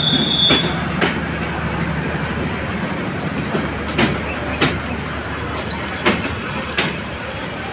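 Bangladesh Railway passenger train rolling slowly: a steady rumble with irregular clanks of the wheels over rail joints, and a brief high wheel squeal near the start and again near the end.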